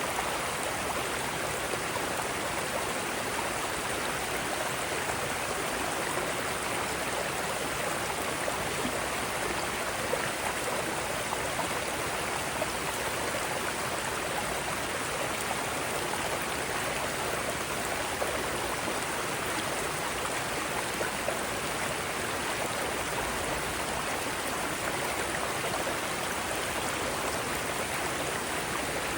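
Mountain stream rushing over rocks in small rapids, a steady, even rush of water.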